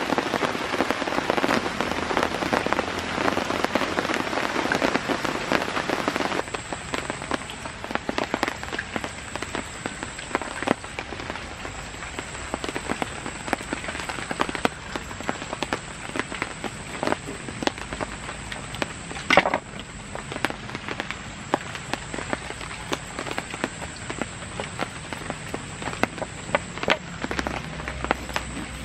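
Heavy rain falling, a dense hiss of drops that switches abruptly about six seconds in to sparser, separate drop hits, with one sharper tap about two-thirds of the way through.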